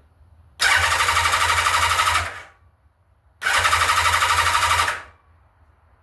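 Motorcycle electric starter cranking the engine in two bursts of fast, even churning, each about a second and a half, without the engine catching. The carburettors are still empty and filling with fuel.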